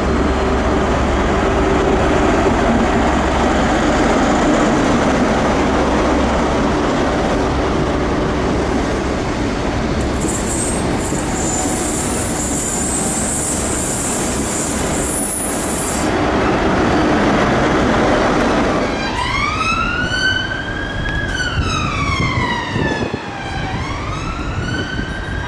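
A train running past with a loud steady rumble, with a high hiss over it for several seconds in the middle. About three-quarters of the way in, an emergency vehicle's wailing siren rises, falls slowly and starts rising again.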